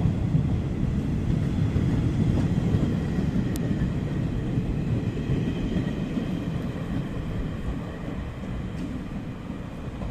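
Train passing by: a heavy rumble of wheels on the rails that slowly fades over the last few seconds as it moves away.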